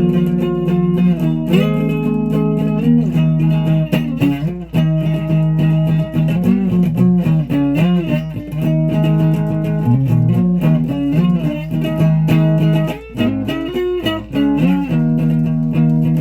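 Electric guitar playing held chords and single-note runs with pitch bends, a few notes bending up and down in the middle, then settling back into a sustained chord near the end.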